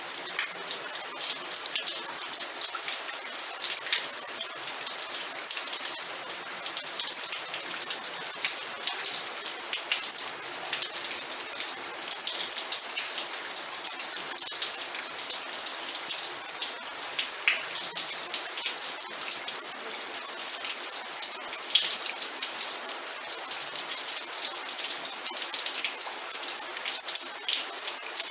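Steady rain with many separate drops ticking sharply through a constant hiss that sits mostly high in pitch.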